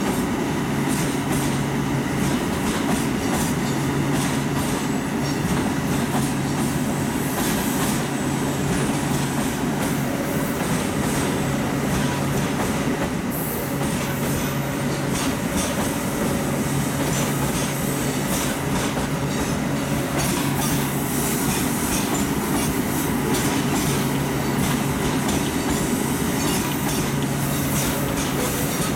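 Freight train wagons rolling past at a steady pace: a continuous low rumble with wheel clatter over the rail joints and faint wheel squeal.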